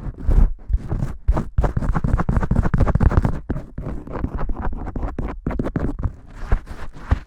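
Fingers vigorously scratching and rubbing through shampoo lather in rapid, rough, irregular strokes.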